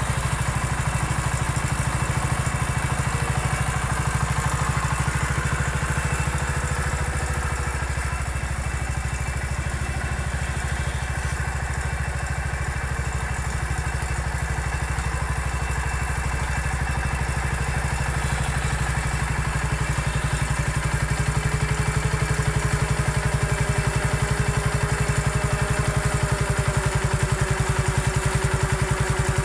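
Engine running steadily with an even beat, growing a little louder about two-thirds of the way through.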